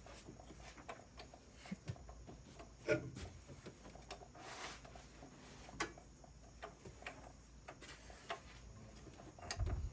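A few faint, scattered clicks and light knocks over a quiet background, with no steady engine or cranking sound.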